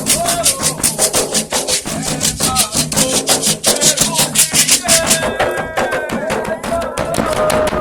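Afro-Brazilian Candomblé toque for Xangô: drums and fast rattle strokes with voices singing. The dense rattling thins out about five seconds in, leaving the singing clearer.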